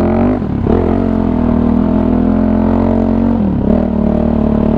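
Kawasaki KFX450R ATV's single-cylinder four-stroke engine running steadily, its revs dipping briefly and picking back up twice, about half a second in and again past the three-second mark.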